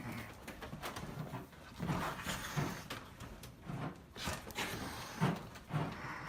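Quiet, irregular short animal sounds, several in a row.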